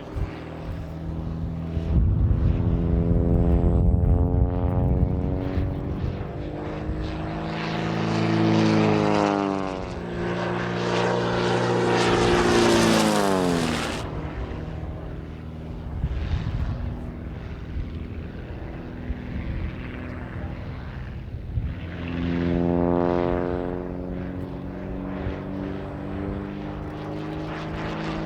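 Pitts Special aerobatic biplane's piston engine and propeller during display flying, the engine note sweeping up and down as the plane manoeuvres. It passes close about halfway through, the pitch dropping sharply as it goes by, and comes close again later on.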